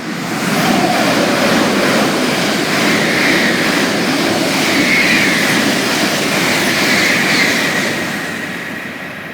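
A Shinkansen bullet train passing through the station at speed: a loud rush of wheel and air noise that builds within about a second, holds for about eight seconds with a wavering high whine on top, and then fades.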